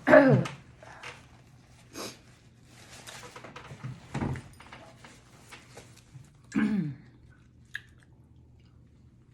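A woman's wordless voice falling in pitch, once at the start and again about six and a half seconds in, like groans of a full stomach after a big meal. Short mouth and chewing noises come in between.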